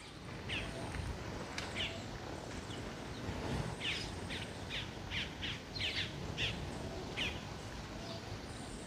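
Small birds chirping: a run of short, quick, downward-sliding chirps, sparse at first and then about two a second through the middle, over low wind noise.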